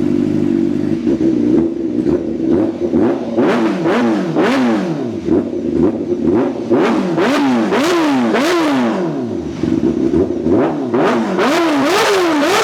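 Honda Fireblade RR-R SP's inline-four engine idling through a newly fitted aftermarket titanium exhaust, then revved in quick throttle blips about once a second, each rising sharply and falling back, with a short break near the end. Loud.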